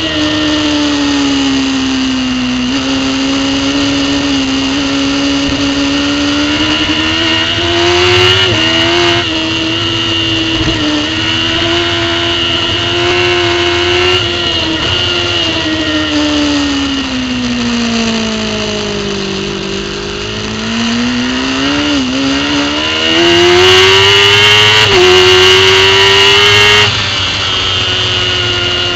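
Racing superbike engine heard from a camera mounted on the bike, running hard at track speed. Its note rises and falls through the lap, sinking slowly to its lowest about twenty seconds in as the bike slows, then climbing back and loudest for a few seconds near the end.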